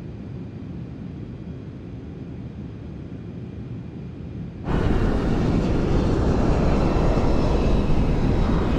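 Steady low hum of a jet airliner in flight. About four and a half seconds in, a much louder jet-engine rush cuts in suddenly and holds steady.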